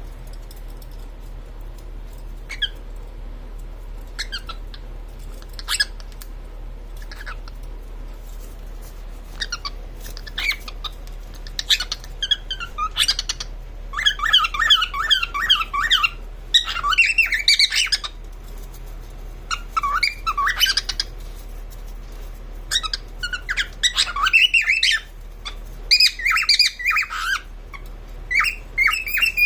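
Female cockatiel calling: a few scattered single chirps at first, then from about halfway in, rapid runs of squawky chirps in several bursts.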